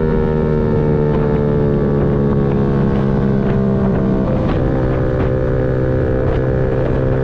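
Yamaha MT-125's single-cylinder four-stroke engine running steadily while riding, its pitch dipping slightly about four seconds in, with wind buffeting the microphone.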